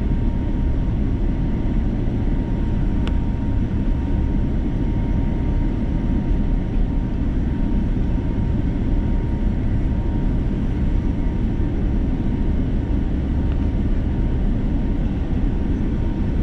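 Steady cabin noise inside an Airbus A330-343 airliner in flight, a deep even rush of engines and airflow with a faint constant whine above it. There is a single small click about three seconds in.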